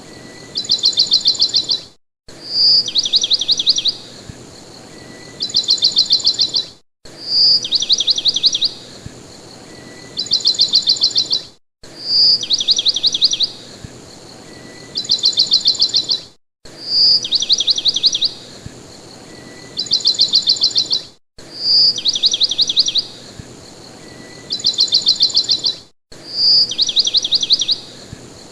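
A songbird's song: a single bright note followed by a fast trill, a pause, then a second trill. The same phrase repeats identically about every four and a half seconds, with a short silent break between repeats, as in a looped recording.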